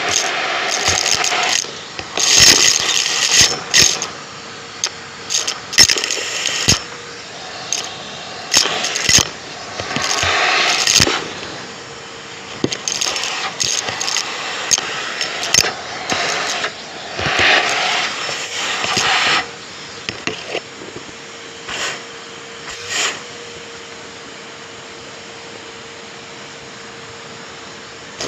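Irregular scraping and rattling on a James (Numatic) vacuum cleaner, with sharp clicks, over a faint steady hum. The scraping stops about two-thirds of the way through, leaving only the hum.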